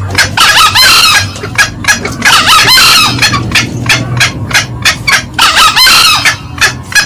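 Green junglefowl calls from a loud lure recording: a quick run of short clucks, about three to four a second, with three longer calls about a second and a half to three seconds apart.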